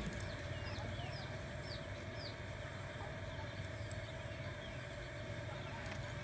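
Small birds, fowl-like, peeping in a run of short falling chirps, about two a second, through the first half, over a steady low background hum. A few faint scissor snips cutting a rubber strip come near the end.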